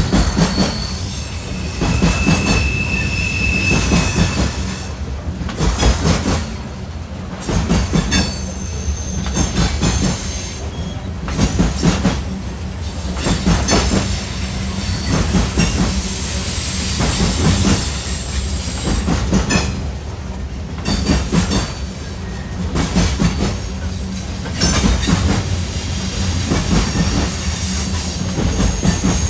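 Freight train cars rolling past, their wheels clattering over the rail joints in a loud burst every couple of seconds, with brief high-pitched wheel squeals now and then.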